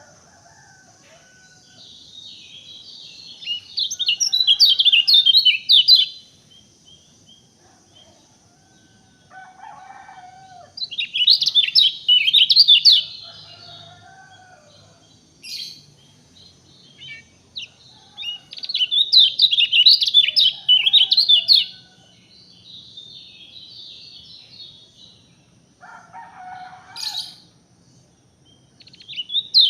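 A songbird singing in bursts of rapid, high chirping phrases, each two to three seconds long and repeated every several seconds, with fainter, lower-pitched bird calls in between.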